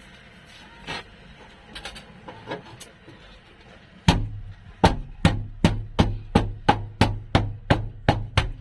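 Hammer blows on steel sheet in a car floor pan: a few light taps, then about a dozen heavy, evenly paced strikes at roughly three a second, each leaving a short low ring.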